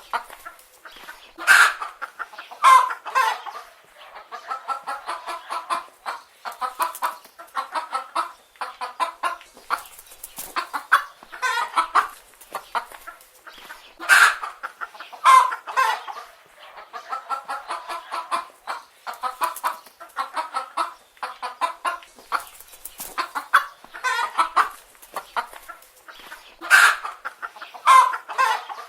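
Chicken hens clucking: a steady run of short, repeated clucks, with several louder calls standing out above them.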